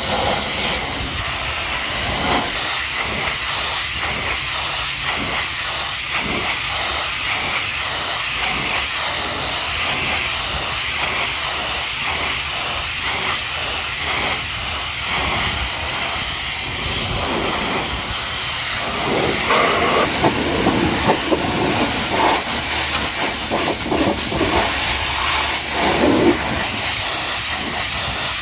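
High-pressure washer jet spraying water against a truck's body: a steady hiss that becomes louder and more uneven in the second half.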